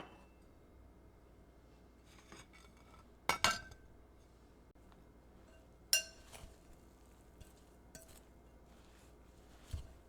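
Dishes and kitchen utensils clinking in a handful of sharp knocks with a short ring, the loudest a double clink about a third of the way in and another about halfway, then a soft low thud near the end.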